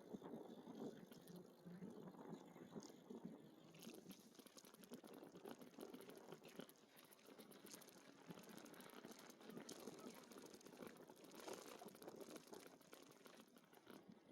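Faint crackling, rustling ride noise from a moving e-bike, with the crackle growing denser about four seconds in.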